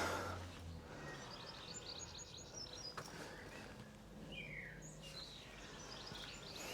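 Quiet background with small birds chirping faintly now and then, including one short falling call near the middle, over a faint low hum.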